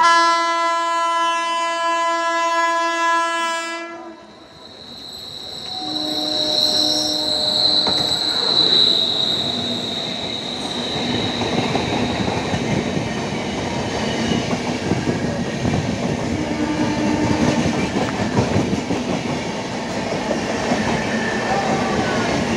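WAP-7 electric locomotive horn sounding one long steady blast of about four seconds, then the locomotive and its LHB coaches running through the station at speed without stopping: a continuous rumble and wheel clatter, with a high whine from about six to eleven seconds in.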